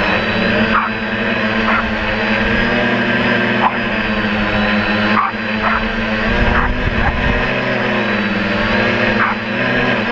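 DJI F450 quadcopter's electric motors and propellers whining steadily, the pitch shifting a little as the throttle changes, with wind rumbling on the microphone.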